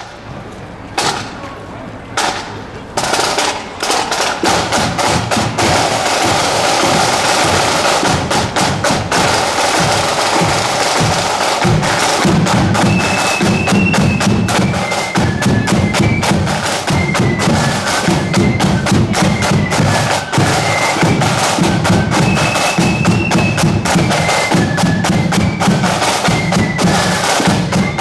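Marching flute band playing on parade. Rattling snare drums with short rolls open it, then a bass drum comes in about twelve seconds in, together with the flutes playing a high melody over the drumming.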